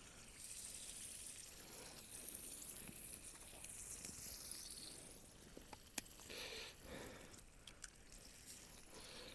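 Ham and eggs sizzling in a frying pan: a quiet, steady hiss with small scattered pops and one sharp pop about six seconds in.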